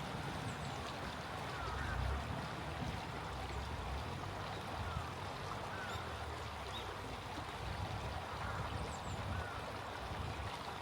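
Small stream flowing steadily with a low rumble underneath, and a few faint, short bird calls scattered through.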